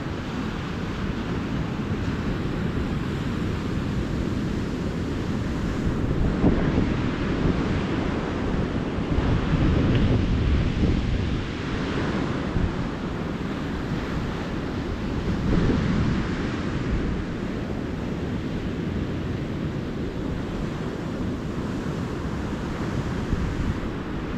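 Ocean surf breaking and washing up a beach, a steady rush that swells louder every few seconds as waves break, with wind rumbling on the microphone.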